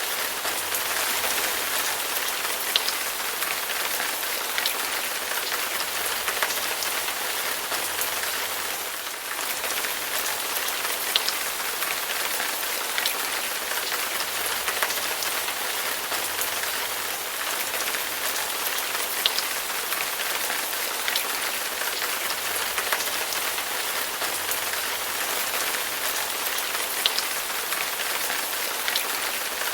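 Heavy rain falling steadily, an even hiss with distinct drops ticking on a surface every second or so.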